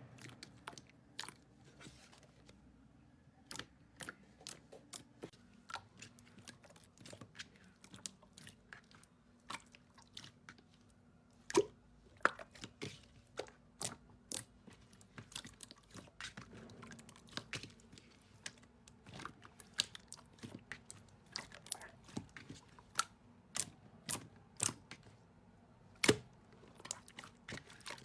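Slime being worked by hand, giving irregular small crackles and pops, several a second, with a few louder snaps.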